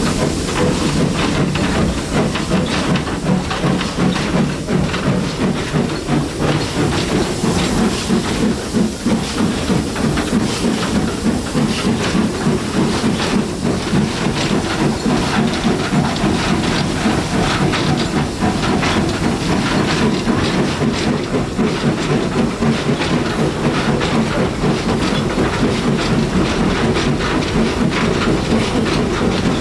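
Steam locomotive running with a train, a steady hiss of steam over the continuous noise of the train on the move.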